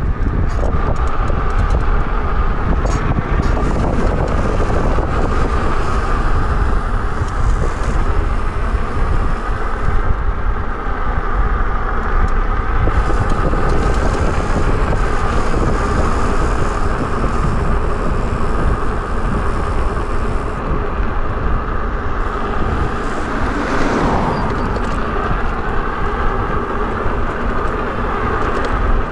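Wind buffeting the microphone of a moving e-bike, over steady road noise with a wavering whine. A vehicle passes about 24 seconds in.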